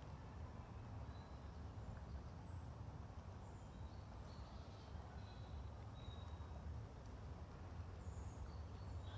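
Faint forest birds giving scattered short, high chirps over a steady low rumble.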